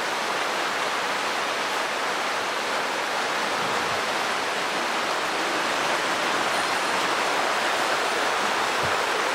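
Mountain stream running, a steady rush of water at an even level.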